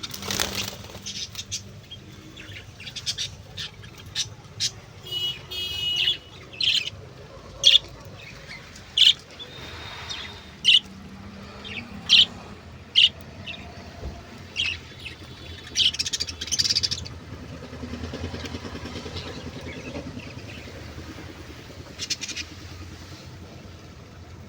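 Birds chirping and calling in short, sharp notes at irregular intervals, with a quick run of repeated notes about five seconds in, over a low steady background rumble.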